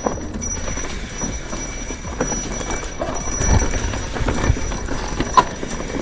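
A bicycle clattering and rattling over a rough trail: irregular knocks and clicks over a low rumble, with a louder run of knocks a little past halfway and a sharp click near the end.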